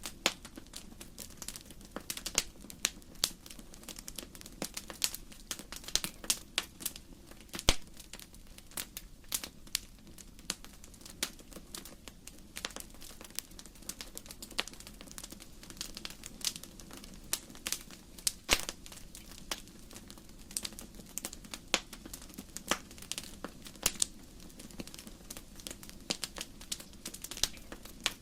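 Wood fire crackling in a fireplace: irregular sharp pops and snaps of burning logs, several a second, over a steady low rush of the flames.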